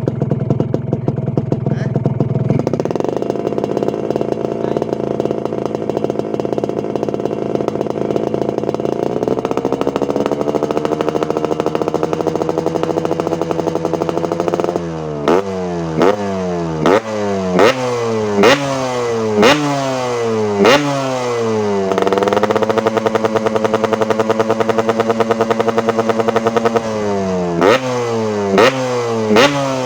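Yamaha RX-King two-stroke single-cylinder engine through a hollowed-out, baffle-less trumpet exhaust. It starts at idle, then holds steady at higher revs in two steps. About halfway it switches to a run of sharp throttle blips roughly once a second, each falling back in pitch, with another steady high-rev hold before the blips resume near the end.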